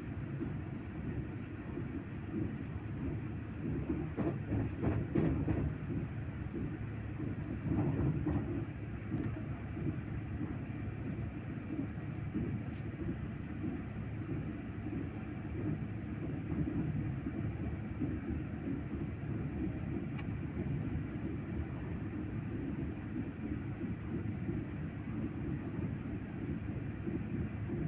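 Train running steadily, a continuous low-pitched noise that swells briefly about five and eight seconds in.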